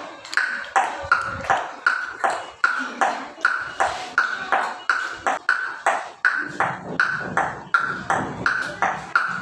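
Clip-clop imitation of a horse's hooves running: a steady train of sharp, ringing clicks, about three a second, alternating between a higher and a lower pitch.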